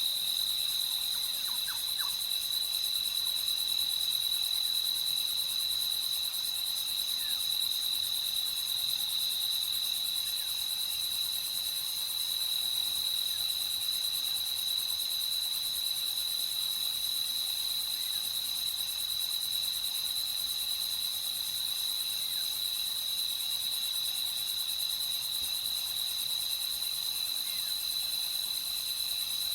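Night chorus of crickets, a steady high trilling with faint scattered chirps underneath.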